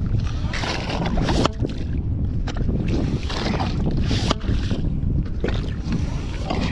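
Wind buffeting the microphone with a heavy, steady rumble, and short hissing splashes of water coming about once a second.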